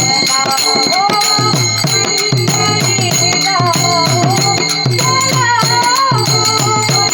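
Marathi abhang devotional music. A gliding melody runs over steady, evenly repeating drum beats, with small metal cymbals ringing throughout.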